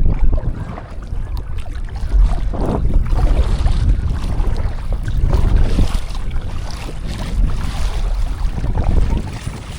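Strong wind buffeting the microphone: a loud low rumble that gusts up and down.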